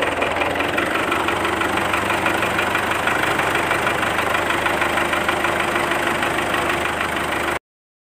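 Small DC hobby motor running steadily with a fast buzzing whir, cutting off abruptly near the end.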